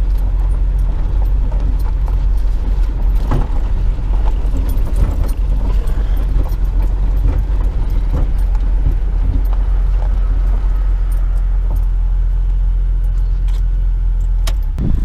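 Jeep driving, heard from inside: a steady low engine and road drone with small rattles and jingles throughout. It cuts off near the end.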